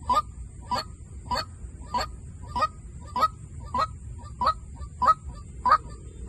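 White-breasted waterhen lure call: short, slightly rising call notes repeated steadily about every 0.6 seconds, ten in a row.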